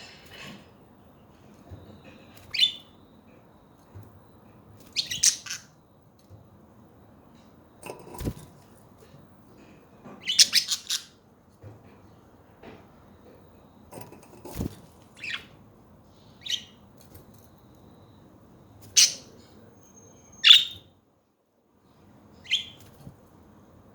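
Pet budgerigars giving short, scattered chirps and squawks, one every second or two, with two dull knocks in the first half.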